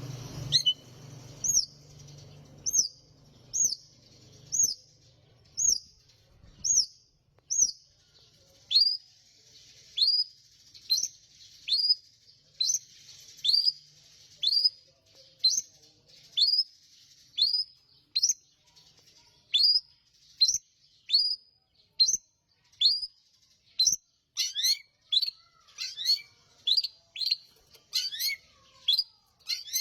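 Long-tailed shrike (cendet) calling: one short, sharp, high falling chirp repeated about once a second, quickening with extra notes mixed in during the last few seconds.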